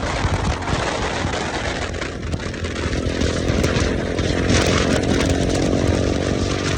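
KTM motorcycle engine running steadily through its newly fitted aftermarket exhaust.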